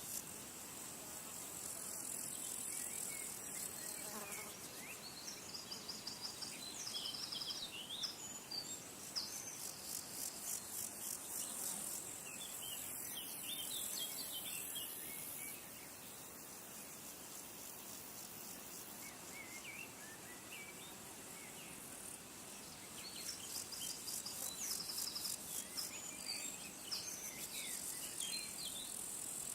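High-pitched insect chorus of rapid, evenly pulsed trills, swelling and fading in spells, with a few short bird chirps now and then.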